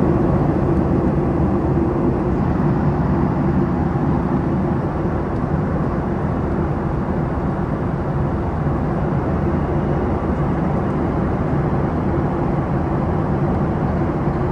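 Steady drone of a Boeing 737 MAX's CFM LEAP-1B engines heard from inside the passenger cabin, an even rushing noise with a low hum that does not change.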